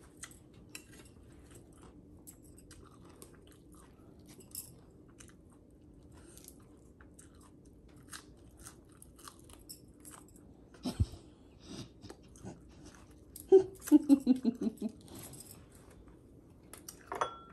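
A person chewing and crunching food, with small wet clicks and mouth sounds. A single thump comes about eleven seconds in, and a louder, pitched, pulsing sound follows a couple of seconds later and lasts about two seconds.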